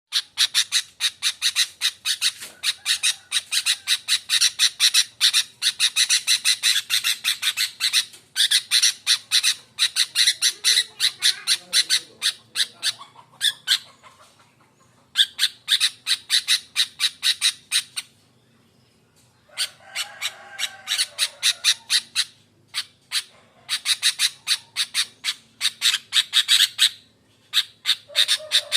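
Sooty-headed bulbul (kutilang) giving harsh, rapid chattering calls in long bouts, broken by two short pauses about halfway through. A few lower whistled notes come in between the bouts.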